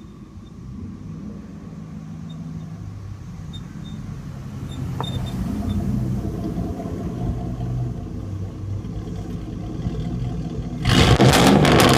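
Straight-piped 5.3L Vortec V8 of a 2004 Chevy Silverado, with no catalytic converters or muffler, running with a low, loud exhaust note that slowly grows louder. Near the end it gets suddenly much louder.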